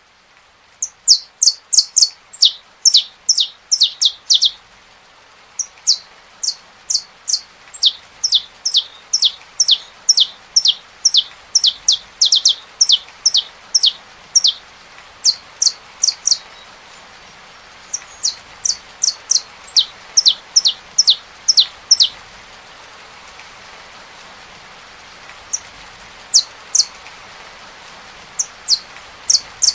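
Saffron finch singing: rapid runs of sharp, downward-sweeping chirps, several a second, in phrases broken by short pauses, over a steady hiss of rain.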